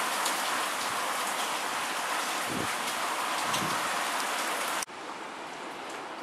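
Heavy typhoon rain falling, a steady dense hiss. About five seconds in it cuts off abruptly to a quieter, softer rushing noise.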